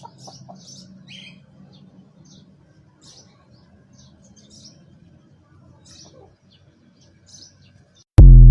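Small birds chirping in short, scattered high calls over a faint low hum. Near the end, a sudden loud burst with a pitched tone cuts in.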